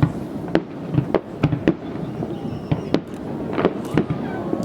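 Aerial fireworks going off: about ten sharp bangs at irregular intervals, several coming in quick succession near the end, over a continuous crackling rumble.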